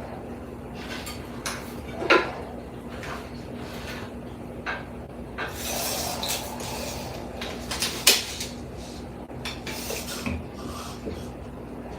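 Tools and materials being handled during ceiling repair work: scattered clicks and knocks, the loudest about two seconds in and near eight seconds, with a stretch of scraping in the middle, over a steady low hum.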